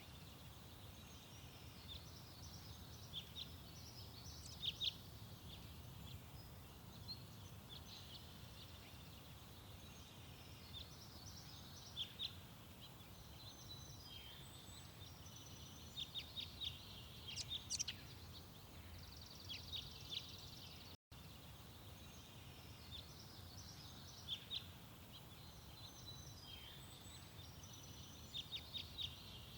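Garden birds chirping and calling: many short, high chirps in scattered clusters over a steady low background hum, with a momentary dropout about two-thirds of the way through.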